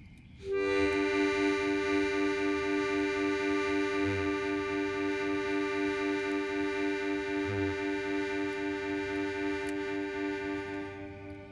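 Harmonica holding a single chord for about ten seconds, the lowest note wavering in a steady pulse. It starts suddenly and fades out near the end.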